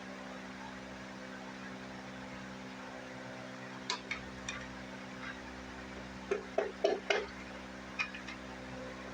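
A few light clicks, then a cluster of short taps about six to seven seconds in: the piston and connecting rod of a Briggs & Stratton engine being tapped out of the cylinder. A steady hum runs underneath.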